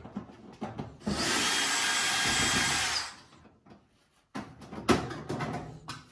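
Power drill running steadily for about two seconds during disassembly of the dryer, then a few knocks and clicks as parts are handled.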